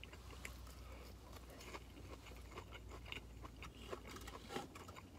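A person chewing a breaded, fried cheese curd: faint, scattered crunchy clicks and mouth sounds over a faint steady low hum.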